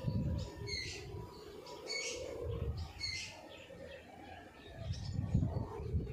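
Small birds chirping: short high chirps repeating every half second to second, over a low rumble in the background.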